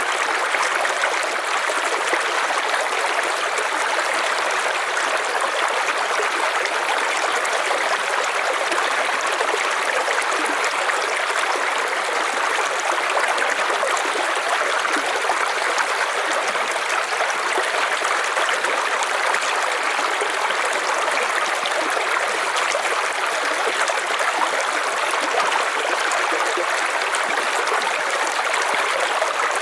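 River water running steadily over stones, with a continuous rushing and trickling.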